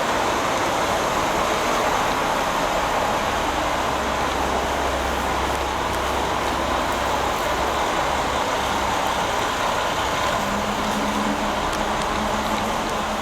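A train standing at a station platform with its engine running: a steady hiss and rumble, with a low hum coming in a few seconds in and a steady low tone near the end.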